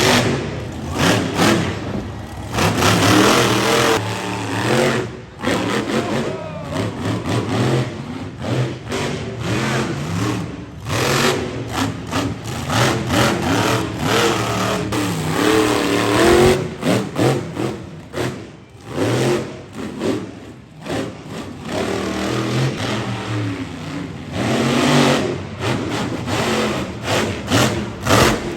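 Monster truck engine revving hard, its pitch rising and falling over and over, with frequent brief drops in the sound.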